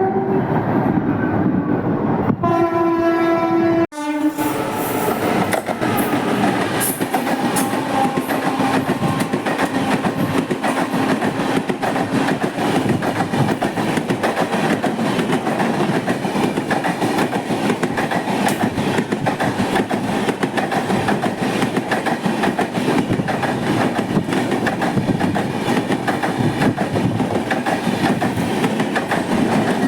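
Indian Railways electric locomotive horns: one chord ends about two seconds in, and a second, differently pitched horn sounds until about four seconds. Then comes a loud steady rush of a train passing through the station at speed, with wheels clattering over the rail joints throughout.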